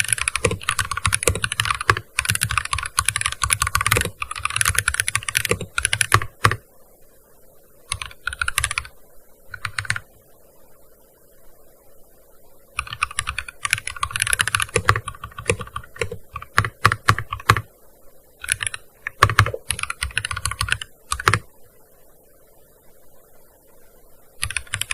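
Fast typing on a gaming keyboard: runs of rapid key clicks, broken by short pauses. There are two longer breaks, one about ten seconds in and one near the end, before the typing starts again.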